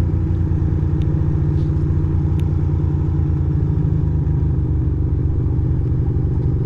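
Ducati Monster 620's air-cooled L-twin engine running steadily with an even, low pulsing beat.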